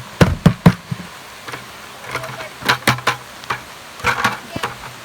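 A series of sharp knocks and thumps, the loudest three in quick succession in the first second and more in clusters later, with a low steady hum underneath from about a second and a half in.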